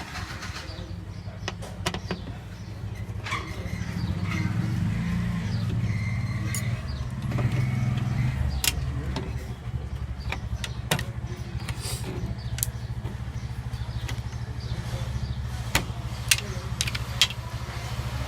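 Scattered clicks and small knocks as a TV's motherboard is opened up and handled, over a steady low hum that swells for a few seconds in the middle.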